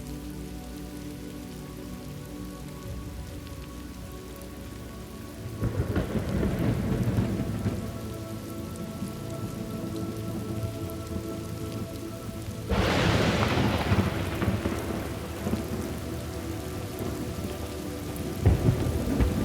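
Thunderstorm: steady rain with rolling thunder. A low rumble builds about five seconds in, a sharper, louder crack comes about two-thirds of the way through and rolls on, and another rumble starts near the end.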